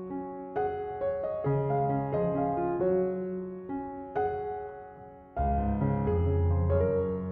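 Slow, gentle piano music, with notes and chords struck and left to ring. About five seconds in it fades almost away, then comes back louder with deeper bass notes.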